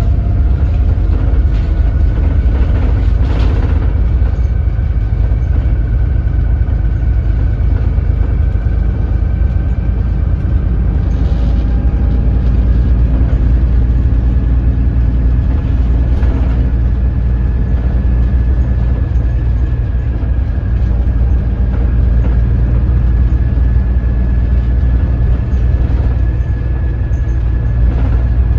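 Doosan DL08K inline-six turbo-diesel in a Daewoo BS106 city bus running at low rpm as the bus drives slowly: a steady deep drone with a faint whine that slowly rises in pitch, and a few light knocks.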